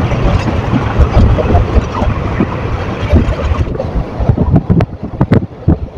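Indian Railways passenger coach running at speed, heard from the open side of the coach: wind rushing over the microphone above the steady rumble of wheels on the track. From about four seconds in, the wind eases and a run of sharp clacks from the wheels on the rails comes through.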